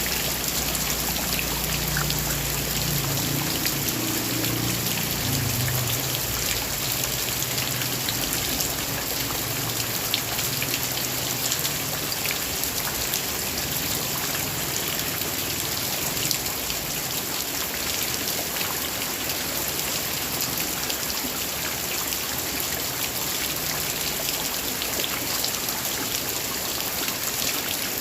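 Heavy rain falling steadily, with a low rumble underneath during the first several seconds.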